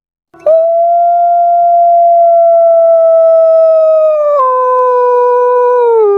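A puter pelung dove's drawn-out call: one loud, very steady hooting note that starts about half a second in, is held for several seconds, and drops in pitch in two steps, about four seconds in and again near the end.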